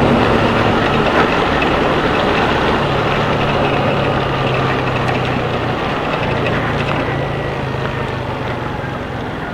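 Motorcycle engine running steadily under the hiss of tyres and rain on a soaked road, picked up by a helmet-cam microphone; the whole sound eases off slowly.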